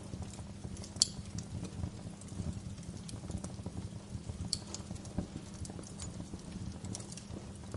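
Wood fire crackling: irregular sharp pops and snaps over a low steady rumble, the loudest pop about a second in.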